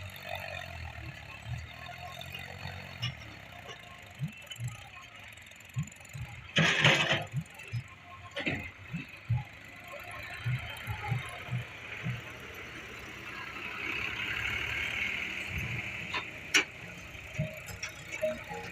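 Tractor diesel engine running with scattered knocks and clatter, and a short loud hiss-like burst about seven seconds in.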